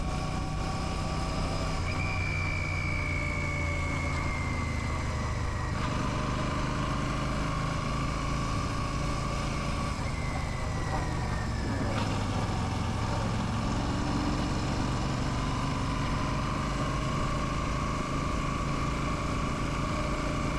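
Royal Enfield Classic 650's parallel-twin engine running steadily, heard from the rider's position. A faint high tone slides downward twice.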